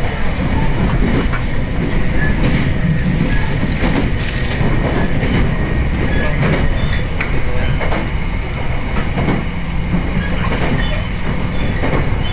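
Running noise heard from inside a moving Senzan Line electric train: a steady rumble of wheels on the rails, with a click now and then as the wheels pass over rail joints.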